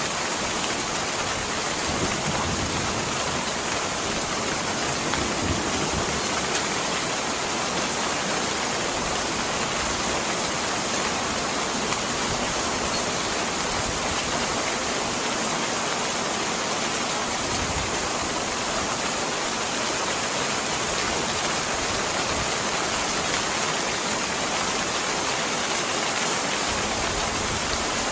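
Steady, even rain: a dense continuous hiss of falling rain with no let-up.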